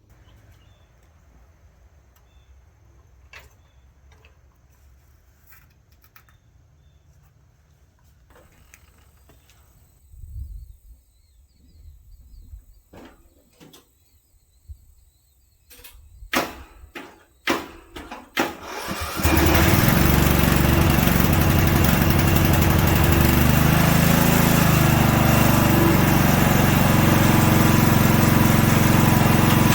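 Riding mower engine starting with a few sharp clunks, then catching about two-thirds of the way in and running steadily and loudly.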